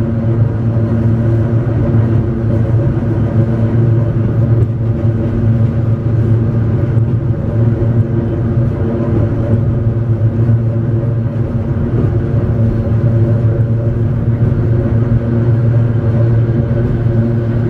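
Hakone Tozan Railway Moha 1-type electric car running at a steady pace, heard from inside the car: a continuous drone of motors and gearing with a steady pitched hum over wheel and track rumble.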